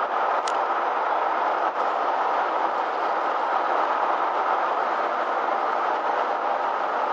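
Steady road and running noise heard inside a moving vehicle, an even rumble and hiss with no change in pace. There is a brief high tick about half a second in.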